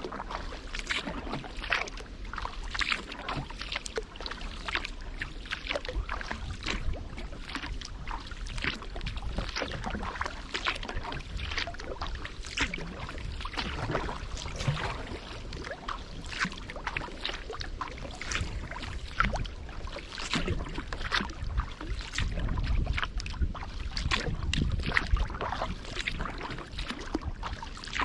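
Kayak paddle blades dipping and pulling through calm river water in a steady rhythm of strokes, with splashes and drips from the blades. A low rumble swells in the latter part.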